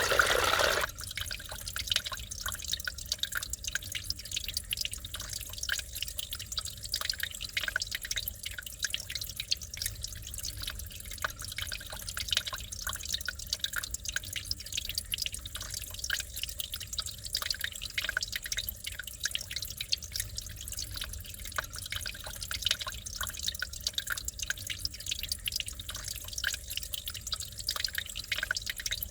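Small mountain stream trickling over rocks, a close, dense patter of little drips and splashes. About a second in, a louder rush of water cuts off abruptly and only this quieter trickle remains.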